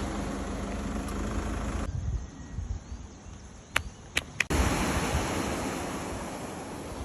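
Steady outdoor rushing of wind buffeting the microphone, with surf-like noise underneath. Just under two seconds in it drops away to a quieter stretch with three sharp clicks, then the rushing comes back and slowly fades.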